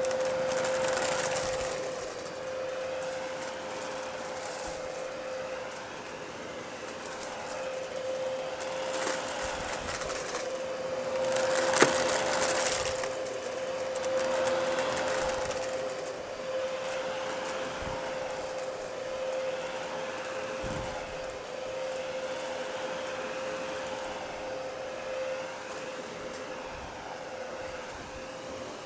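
Dyson DC33 upright vacuum cleaner running with a steady motor whine. The rushing noise swells and fades as it is pushed back and forth over debris, with one sharp crack about twelve seconds in.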